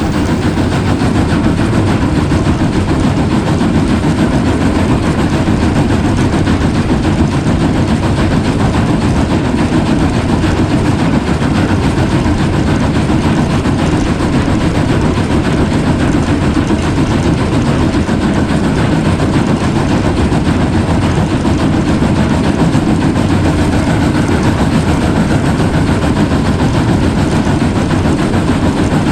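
Narrow-gauge train running along the track: a steady, heavy rumble.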